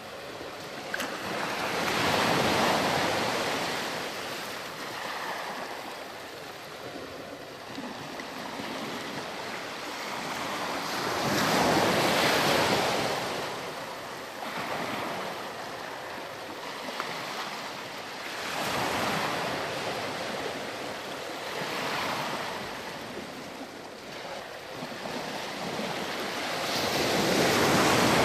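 Ocean waves breaking and washing up a sandy beach, surging in and ebbing away every several seconds.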